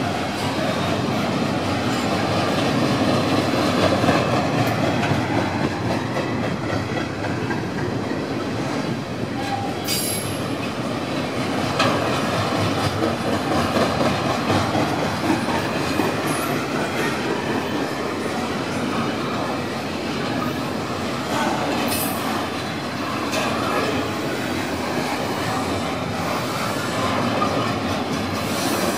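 Double-stack intermodal freight train's container well cars rolling slowly past: a steady rumble of steel wheels on rail, with wheel squeal and a few brief sharp clanks, the clearest about ten, twelve and twenty-two seconds in.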